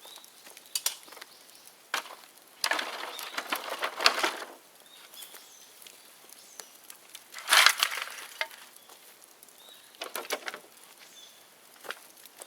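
Dry bamboo crackling and snapping in sharp cracks and bursts of dense crackle, the loudest burst about seven and a half seconds in, with faint short bird chirps between.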